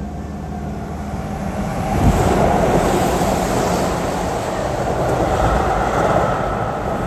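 Keihan 2400 series electric train running by on the track. About two seconds in there is a thud, and the wheels and traction motors rise into a loud rumble that keeps going.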